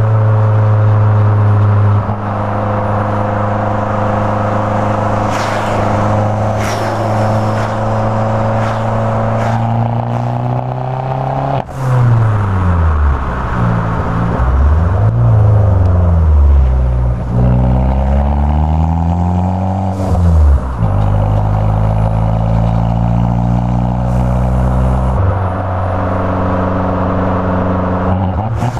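Fiat 500 Abarth's turbocharged 1.4-litre four-cylinder, with an aftermarket Borla X1R exhaust and 2.5-inch downpipe, heard from inside the cabin while driving: a steady drone at cruise. About halfway through, the engine note dips sharply, then falls and rises several times over roughly eight seconds before settling back into a steady drone.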